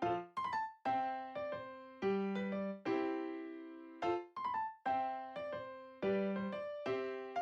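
Background music: a light piano tune of single struck notes, each ringing and fading before the next.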